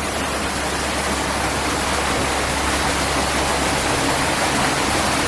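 Small waterfall, water falling and rushing in a steady, even stream.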